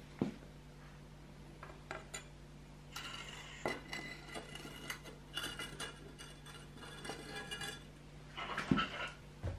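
Metal bicycle parts and hand tools clinking and knocking irregularly, with thin ringing metallic tones through the middle stretch, over a steady low hum.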